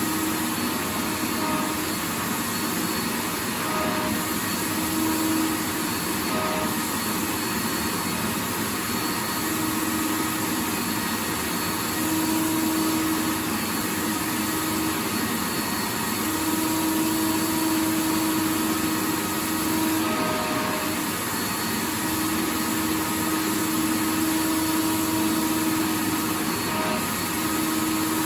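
Vacuum cleaner running steadily: a continuous rushing motor-and-air noise with a faint hum whose tones fade in and out.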